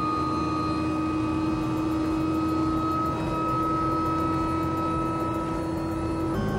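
Helicopter running: a steady engine and rotor drone with a steady whine, whose tones change abruptly near the end.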